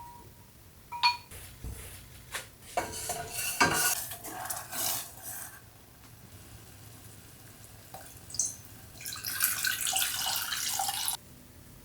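Kitchen dishes and utensils clinking, with two stretches of running water. The second stretch stops suddenly near the end.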